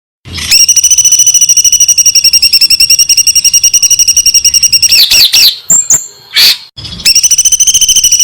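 A songbird's rapid 'tembakan' trill: a long burst of fast, evenly repeated high notes starting just after the beginning, a brief break of a few varied notes around the middle, then the rapid trill starting again near the end.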